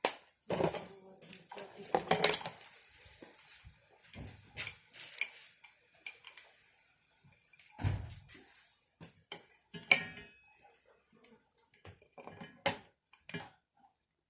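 Irregular clinks, knocks and clattering of hard objects being handled and set down, with some rustling; the loudest knocks come near the start, about two seconds in, and about ten seconds in.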